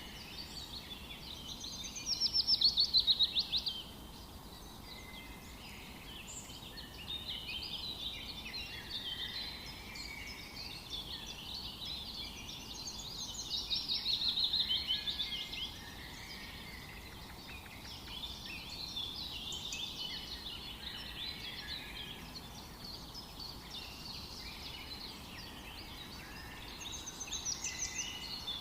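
Several forest birds singing and chirping together. A fast run of repeated notes stands out about two seconds in, again around the middle and near the end, over a faint steady background hiss.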